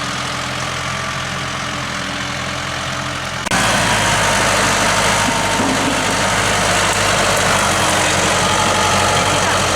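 A heavy engine idling steadily, then about three and a half seconds in it abruptly speeds up and runs louder under throttle until the end.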